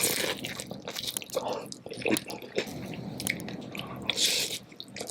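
Close-miked wet chewing and smacking of a saucy seafood boil, with small sticky clicks throughout and a brief hiss about four seconds in.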